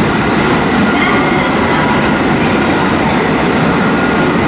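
A Shinkansen bullet train moving past the platform: a loud, steady noise of wheels on rail and rushing air, with faint high whining tones running through it.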